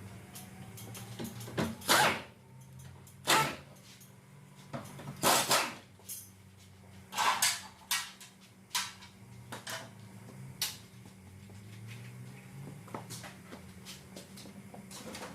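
A series of irregular sharp knocks and clanks, about eight of them, with the loudest in the first half, over a steady low hum.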